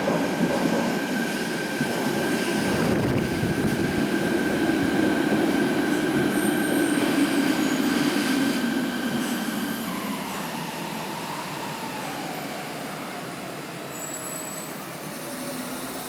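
A Nanakuma Line linear-motor subway train running with steady rail and running noise and a high whine. About ten seconds in, the motor whine falls steadily in pitch and the running noise dies away as the train slows down.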